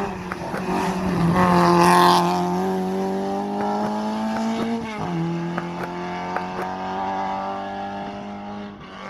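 Ford Escort hill-climb car's engine under hard acceleration, its pitch climbing steadily and dropping sharply at an upshift about five seconds in, then climbing again. Loudest about two seconds in as the car passes close.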